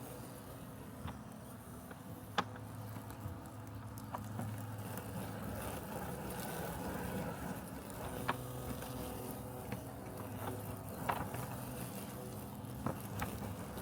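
Robotic lawn mower running with a steady low hum, broken by sharp clicks at uneven intervals, about six in all.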